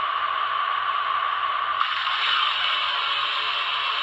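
Recorded steam-locomotive boiler blowdown effect from a Broadway Limited M1a model's Paragon 2 sound decoder, played through the model's small speaker: a steady hiss that turns brighter about two seconds in.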